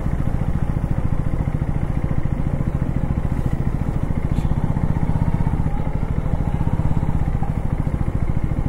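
KTM 250 Duke's single-cylinder engine running steadily at low revs while the bike rolls slowly.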